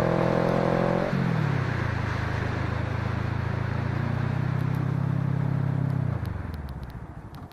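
Motorcycle engine running under way with wind rush. Its pitch steps down about a second in as it shifts up a gear, holds steady, then the engine note falls away near the end as it slows.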